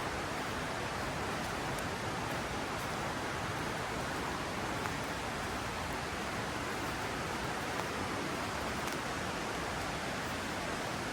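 A mountain river flowing, a steady even rush of water.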